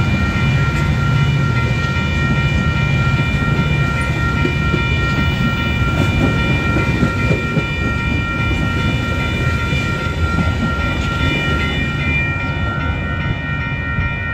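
Metra bilevel commuter cars rolling past on the rails as the train pulls out, a heavy rumble with wheels clicking over rail joints, easing near the end as the last car goes by. Grade-crossing bells ring steadily over it.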